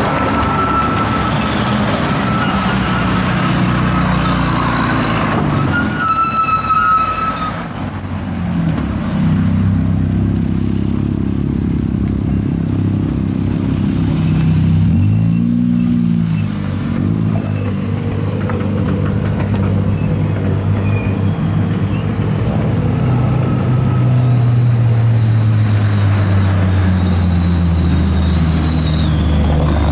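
Hill-climb racing car engines running hard past the course, revving and changing pitch as they accelerate and shift. The engine pitch climbs sharply about halfway through.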